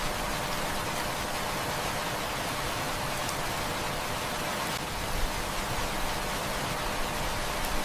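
Heavy rain falling steadily, an even hiss of dense drops, with a few faint pops from a crackling wood fire, the clearest about five seconds in.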